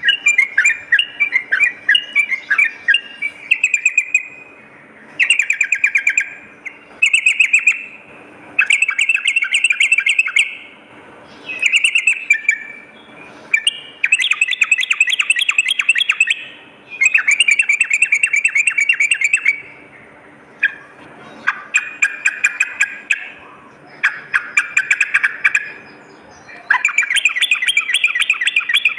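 Yellow-vented bulbul (trucukan) singing: loud, rapid, bubbly chattering phrases of one to three seconds each, repeated again and again with short pauses between them.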